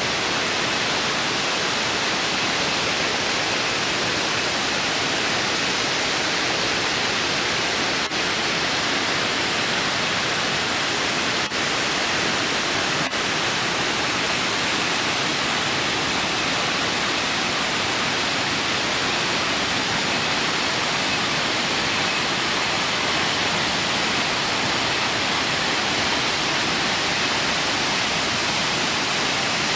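Sekumpul Waterfall pouring: a steady, dense rush of falling water.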